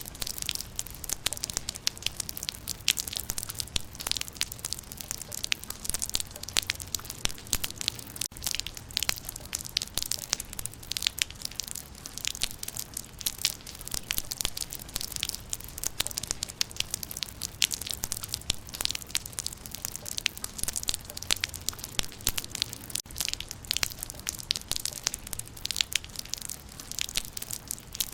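Steady rain pattering on leaves, many dense sharp drop impacts with no let-up.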